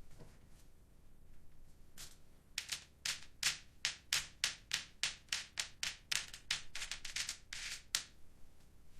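Match heads flaring one after another with short hisses, about three a second, as fire spreads through a model built from matchsticks. The flares start about two seconds in and stop near the end.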